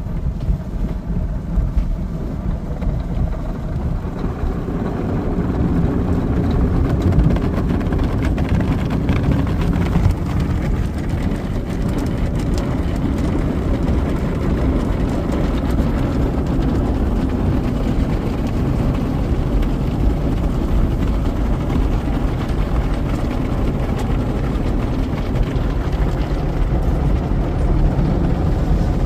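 Belanger conveyor car wash tunnel machinery heard from inside the car: a steady low roar that grows louder a few seconds in.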